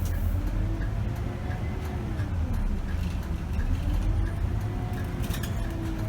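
2008 Scania K270 bus's rear-mounted five-cylinder diesel engine running under way, heard from the driver's seat with a deep steady rumble. The engine note rises and falls twice as the revs change, and faint regular ticking sounds over it.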